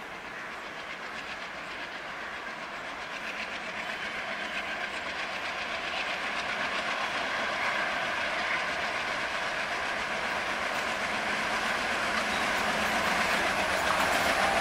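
A train approaching on the track, its running noise growing steadily louder as it nears.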